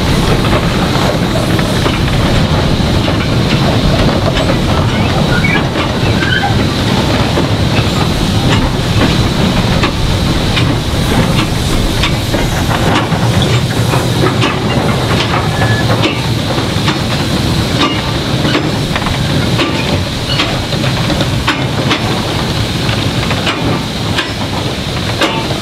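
Steam hissing steadily while a slow rake of goods wagons rolls past, the wheels giving irregular clicks and knocks over the rail joints.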